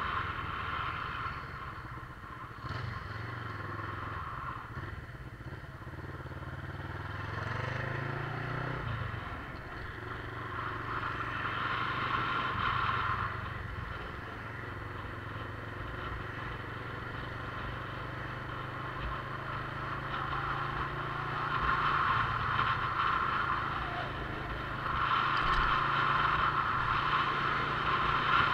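Motorcycle engine running while riding, its revs rising and then dropping away about eight to nine seconds in.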